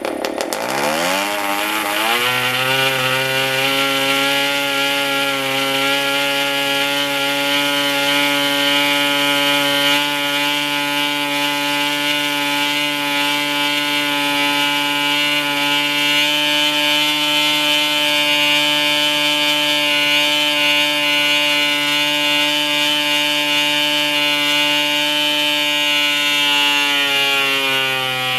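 PAW 40 TBR model diesel engine swinging an APC 11x8 propeller, opened up from idle to a steady high-speed run of about 9,000 RPM in the first two seconds, held there, then throttled back slightly near the end.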